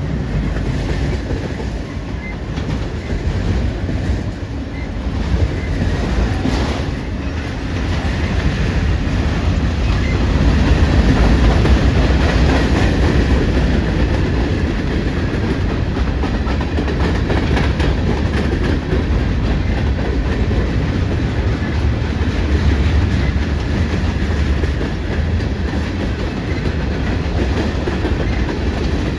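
Freight train rolling past, its wheels clacking over the rail joints above a steady low rumble.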